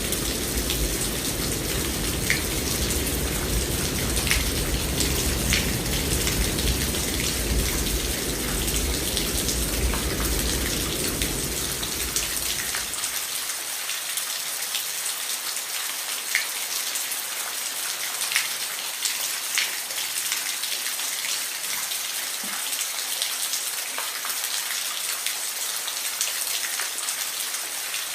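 Steady rain hissing, with individual drops ticking sharply on a hard surface. A deep low rumble runs under the rain for the first half and dies away about halfway through.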